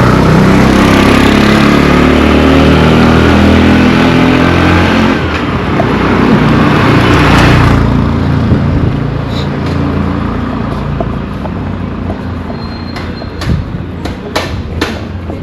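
Motor vehicles passing close by on a road, engine noise loud with shifting pitch, peaking again as a vehicle goes past about seven seconds in. The traffic then fades and sharp knocks come in near the end.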